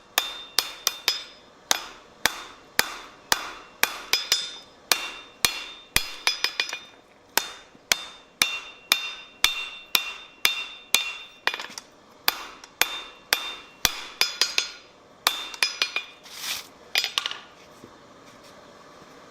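Blacksmith's hammer striking steel on an anvil, about two blows a second, some in quick pairs, each with a bright metallic ring. The hammering stops a couple of seconds before the end.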